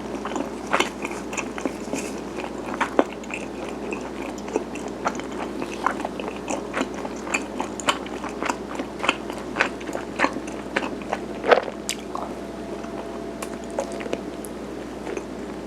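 Close-miked chewing and biting of garaetteok, chewy Korean rice cake sticks: many short, sticky, wet mouth clicks and smacks at an irregular pace, over a steady low hum.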